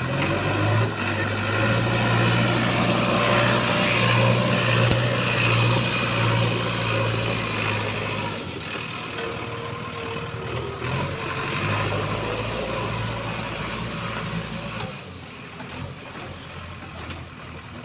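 JCB 3DX backhoe loader's diesel engine running under working load. It is strongest in the first half, eases about halfway, picks up again briefly, and settles lower near the end.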